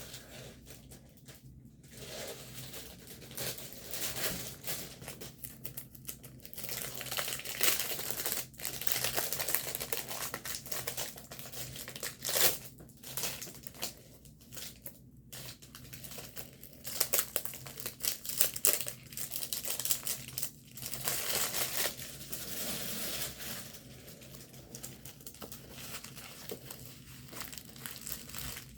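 Plastic packaging of a diamond painting kit crinkling and rustling in irregular bursts as it is handled and unpacked.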